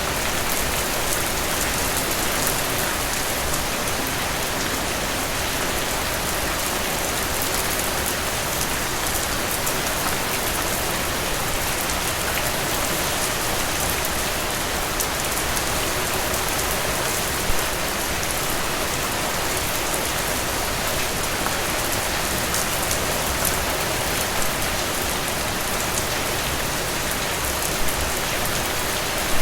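Steady rain falling through trees, a dense even hiss with crisp individual drop ticks. A few heavier drops land louder, one about two-thirds through and one near the end.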